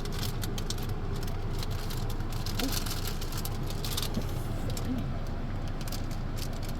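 A car's engine idling steadily, with scattered light clicks.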